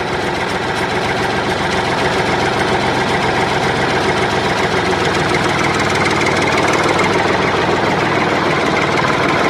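An engine running steadily at a constant speed, a loud, dense rattling drone with no change in pitch.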